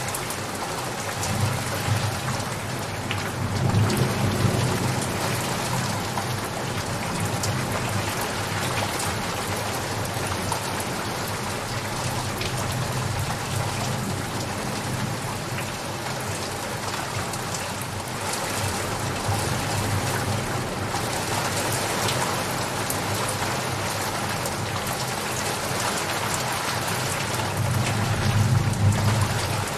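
Steady rain falling, with low thunder rumbling that swells a few seconds in and again near the end.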